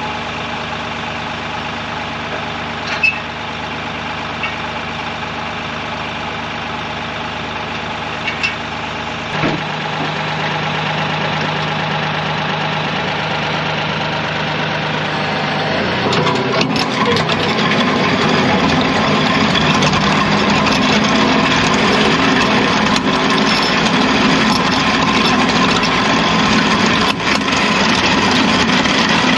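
Kioti CK3510 compact tractor's three-cylinder diesel engine running steadily. About a third of the way in it gets louder, and past the middle it turns louder and rougher, with a broad grinding noise as the tractor works the land plane with its rippers down in the gravel.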